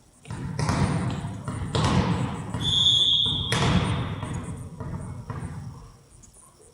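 A referee's whistle blows once, a short steady blast about three seconds in, over irregular thumps and surges of noise.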